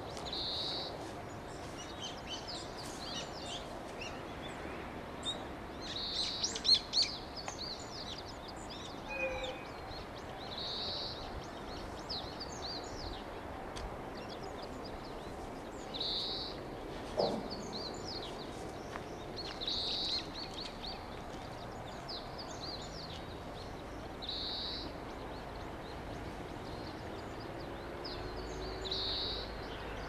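Small birds singing and chirping, one bird repeating a short high song phrase about every four to five seconds.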